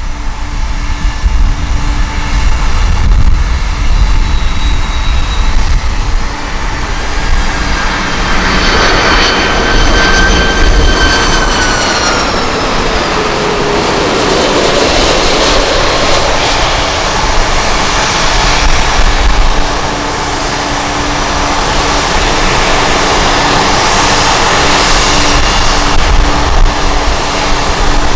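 Jet airliner flying past, its engine whine sliding down in pitch as it goes by about a third of the way in, followed by a broad rushing roar. Strong gusty wind buffets the microphone throughout.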